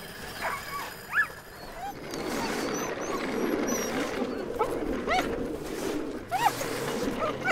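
Sled dogs in a running team giving short, high yips and whines every second or two, over a steady rushing noise that comes in about two seconds in.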